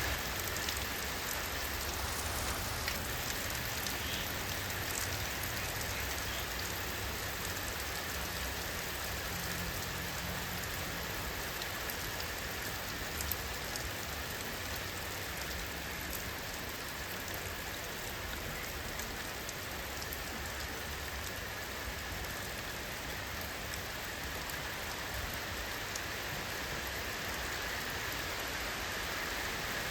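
Steady rainfall pattering on surfaces, an even hiss with scattered individual drop ticks and a low rumble underneath.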